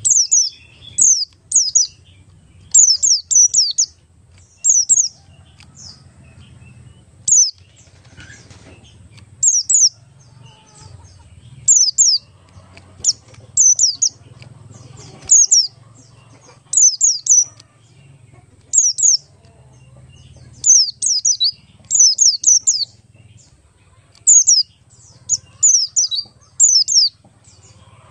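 Oriental white-eye (the Buxton's form, 'pleci Buxtoni') calling: short, high-pitched, down-slurred chirps in quick clusters of one to four, repeated every second or two over a faint low hum.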